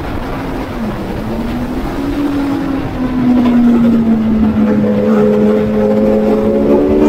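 Racing motorcycle engine heard from an onboard camera, with wind rushing over the microphone. The engine holds a steady note that dips about a second in, gets louder about three seconds in, then climbs slowly as the bike accelerates.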